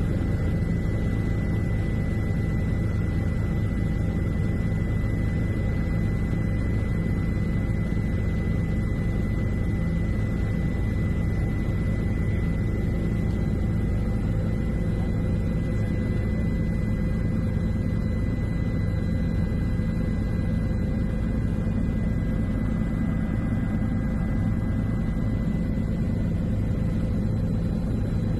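Aircraft engine droning steadily and evenly, heard from on board during the overflight.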